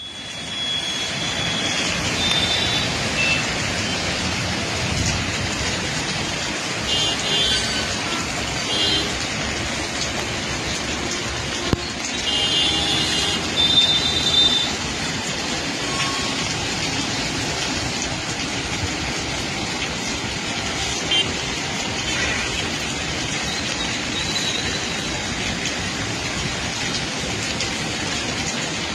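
Highway traffic noise in a jam: a steady wash of engine and tyre sound, with short high-pitched tones several times in the first half.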